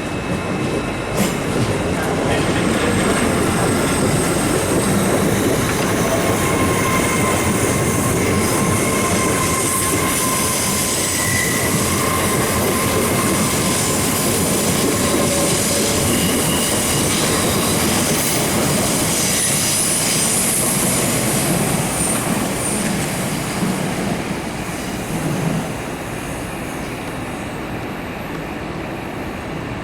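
A train moving through the station, its wheels squealing in thin high tones over the steady running noise and rail clatter; the noise eases off near the end.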